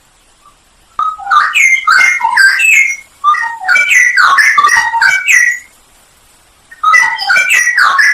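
Straw-headed bulbul (cucak rowo) singing loud, rich, warbling phrases of quick gliding notes. There are three phrases of about two seconds each, separated by short pauses, and the third begins near the end.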